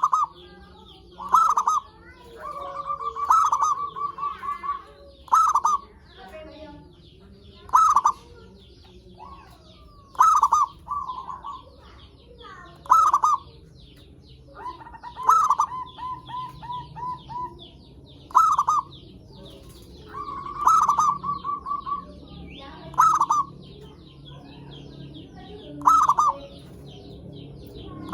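Zebra doves (perkutut) cooing in a repeated pattern, about every two to three seconds: each call is a loud note followed by a quick run of short, evenly spaced coos. Fainter, higher chirping runs behind it.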